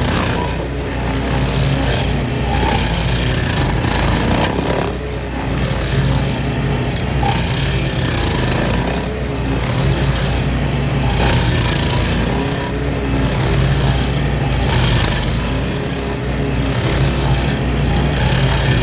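A small gasoline engine running steadily at high speed, with a noisier rasp that swells and fades every few seconds.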